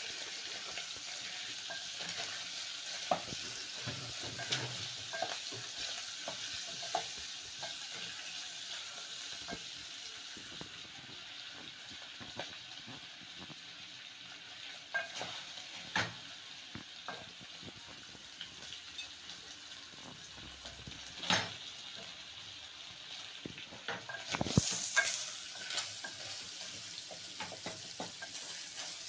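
Matumbo (tripe) frying in oil in an aluminium pot, with a steady sizzle as its water cooks off, while a wooden spoon stirs it and knocks and scrapes against the pot. The sizzle flares up louder briefly near the end.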